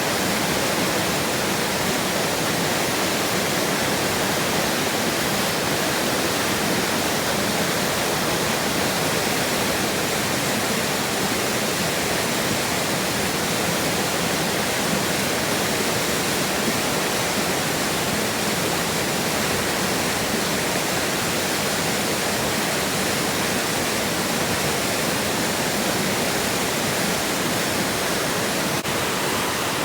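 A fast-flowing river rushing steadily, a loud, even roar of water with no breaks.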